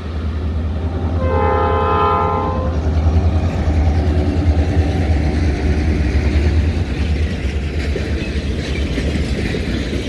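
Reading Blue Mountain & Northern passenger train passing close by: the diesel locomotive rumbles past and gives one short horn blast about a second in. The passenger cars then roll by with steady wheel-on-rail noise that eases slightly near the end.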